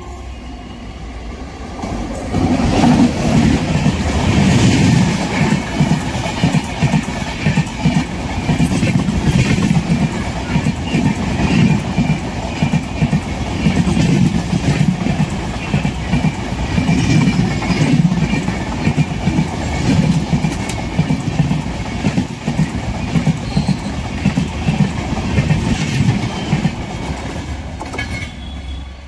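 Express train hauled by a WAP-7 electric locomotive passing at speed: the rush of coaches with rhythmic wheel clatter over the rail joints, loud from about two seconds in and dropping off as the last coach moves away near the end.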